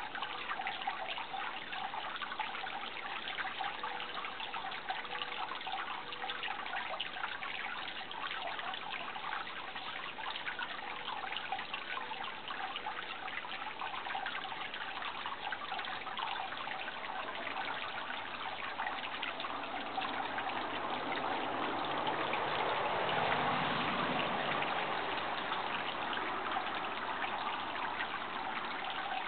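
Running water trickling steadily. About two-thirds of the way through, a low rumble swells and then fades under it.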